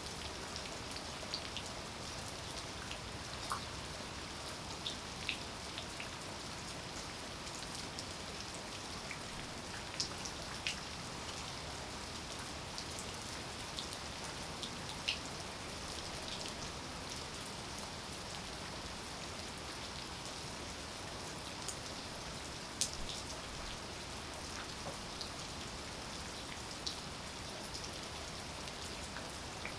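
Steady rain falling, with about ten louder single drop hits scattered through it.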